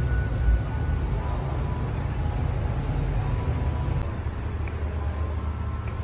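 Steady low rumble of car engines idling and traffic; the rumble changes character about four seconds in.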